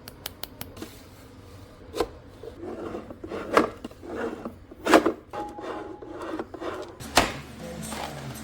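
Hard plastic parts being handled: a quick run of sharp clicks at the start, then several separate knocks with rubbing and scraping between them.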